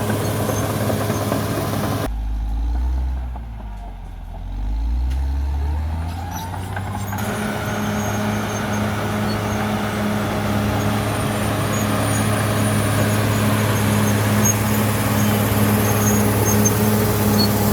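CAT D6R XL bulldozer's diesel engine running steadily with a low hum. Between about two and seven seconds in, the sound turns duller and quieter while the deep engine note dips and then rises again.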